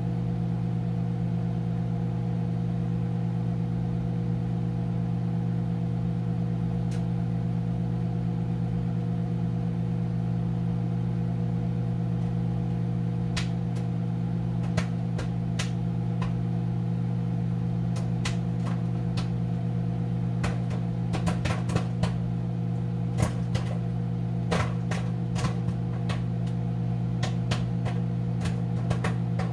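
Commercial Chef countertop microwave oven running with a steady hum while a bag of Act II butter microwave popcorn starts to pop. There are a few single pops at first, then more frequent popping in the last several seconds.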